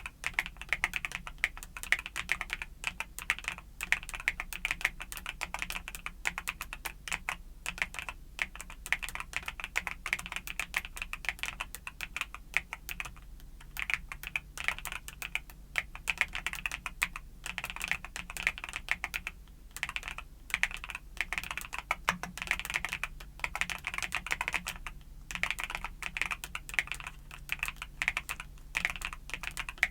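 Steady, fast typing on a mechanical keyboard with YUNZII Cocoa Cream switches: a dense run of key clacks with a few brief pauses.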